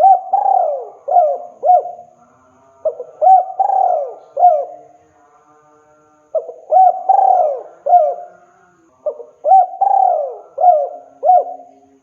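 Male spotted dove cooing its territorial song: a phrase of several short coos, repeated four times with brief pauses between.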